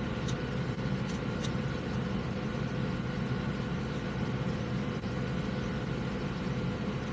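Steady machine hum with a few faint high clicks in the first second and a half.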